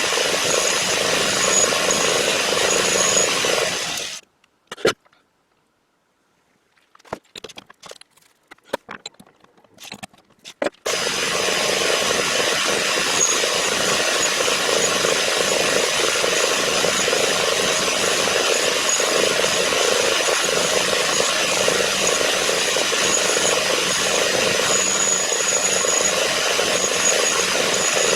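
A machine tool running steadily as it cuts metal. About four seconds in it stops abruptly, leaving near silence with a few light clicks for about seven seconds, then the same steady cutting starts again abruptly and carries on.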